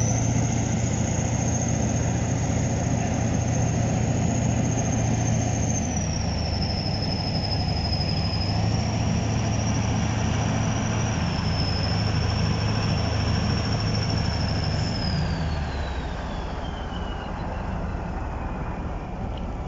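Heavy tractor diesel engine running, its revs shifting, with a high-pitched whistle over it. The whistle rises at the start, holds, dips twice, and falls away gradually near the end.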